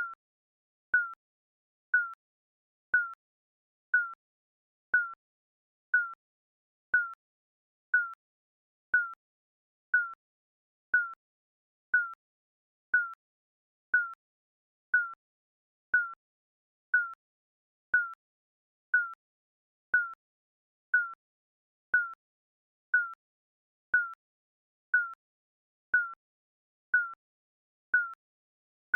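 Digital countdown timer beeping: a short, high beep once a second, ticking off the seconds.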